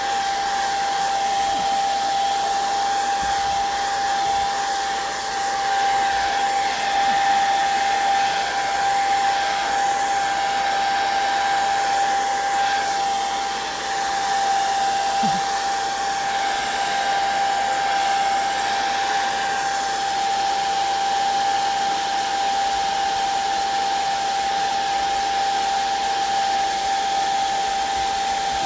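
Handheld hot-air dryer blowing steadily, a rush of air with a steady high whine from its motor, drying wet watercolor and ink on paper.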